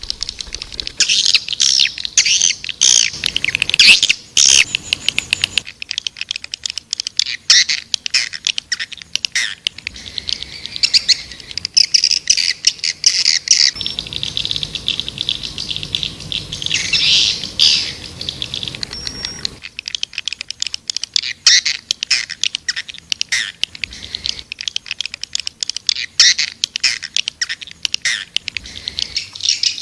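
Swiftlet calls: a dense, continuous chorus of rapid high chirps and stuttering clicking twitters, the kind of call recording played to lure swiftlets into nesting houses.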